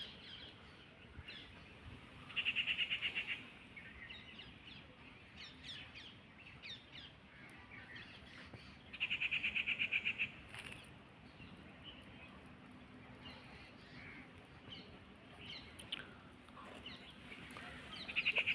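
Forest birds chirping, scattered short calls throughout. The loudest part is a rapid trilling call about a second long that comes three times, roughly seven seconds apart.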